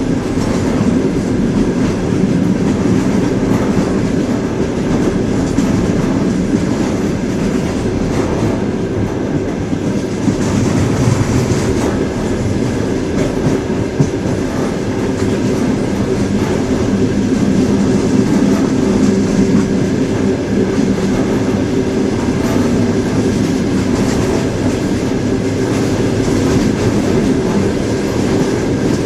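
Train wheels running on the rails: a steady, even noise with a few faint steady tones in it.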